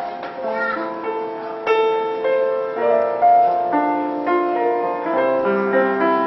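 Piano being played: a slow melody of single notes over held chords, each note struck and left to ring.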